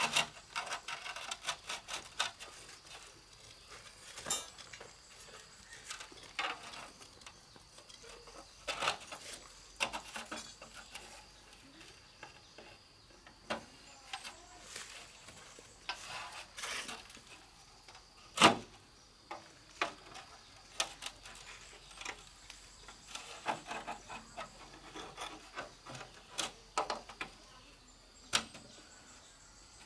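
Masonry hand work on cement and brick: irregular scraping and tapping of a trowel working cement mortar, with one sharper knock about two-thirds of the way through.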